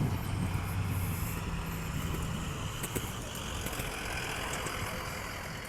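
A motor vehicle engine running with a low steady hum that fades after about two and a half seconds, leaving a broader rush of traffic noise.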